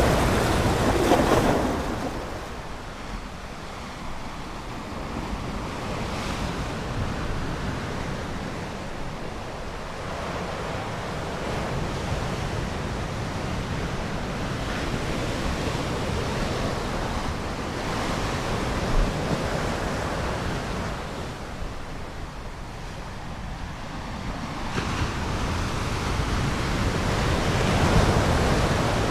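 Ocean surf: waves washing in and drawing back. Loudest in the first second or so, it falls away, then builds again to a swell just before the end.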